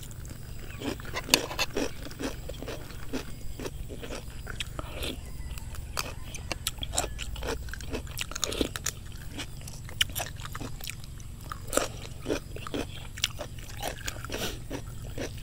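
Close-up chewing and biting of food: many small, irregular crunches as crisp raw vegetables and rice noodles are eaten, over a low steady hum.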